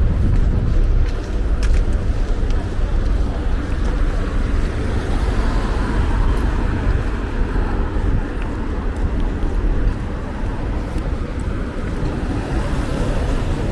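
City street ambience: road traffic passing, under a steady low rumble.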